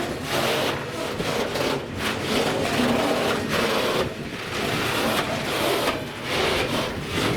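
A train rolling past on the rails, a continuous rumble of wheels and cars that swells and dips every second or so.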